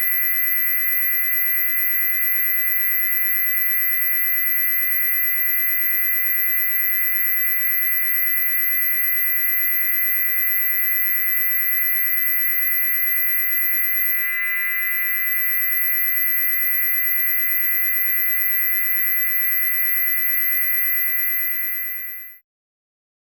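Loud, steady high-pitched electronic tone with several other tones layered under it, held unchanged, then fading out and stopping near the end.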